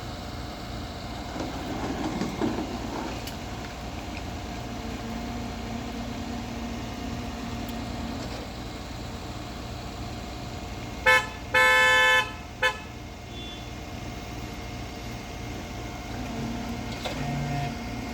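A car horn sounds three times about eleven seconds in: a short toot, a longer honk of about a second, then another short toot, over a steady low hum of an idling vehicle engine.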